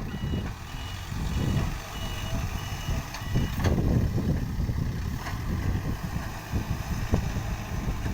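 Backhoe loader's reversing alarm beeping about twice a second, stopping about three and a half seconds in, over a steady low engine rumble, with a few short knocks later on.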